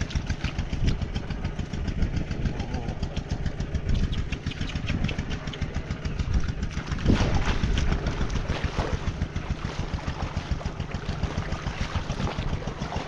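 Small engine running steadily with a fast, even chugging, as from a small boat motor.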